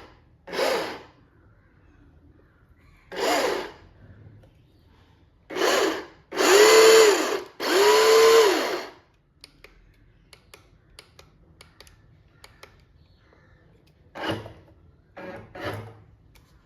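1:16-scale BMW E30 RC drift car's electric motor and gears whirring in short throttle blips, about seven of them. The two longest, in the middle, rise in pitch, hold and then drop away.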